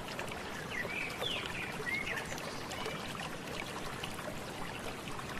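Steady trickle of flowing stream water, with a few short bird chirps about one to two seconds in.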